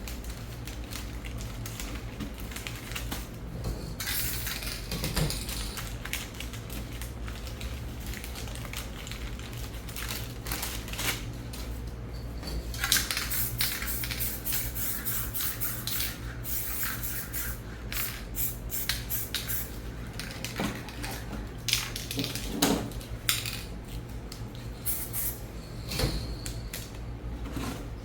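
Aerosol spray paint cans sprayed in repeated short bursts of hiss, mixed with clinks, knocks and scrapes of cans and tools on the painting surface. A steady low hum runs underneath.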